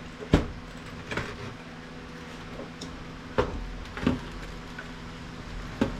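A few sharp knocks and clunks as a computer monitor is handled and shifted on a work surface, over a steady low hum.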